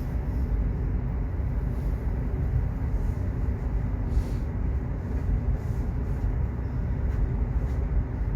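Subway train running: a steady low rumble.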